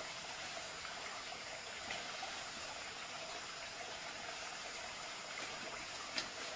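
Steady sound of running water, with a single sharp click near the end.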